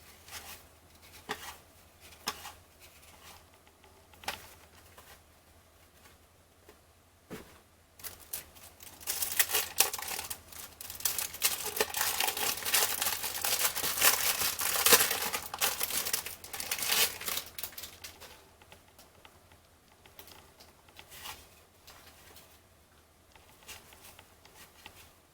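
Cellophane wrapper of a 1989 Fleer baseball card cello pack being torn open and crinkled for about ten seconds in the middle, with faint ticks of cards being handled before and after.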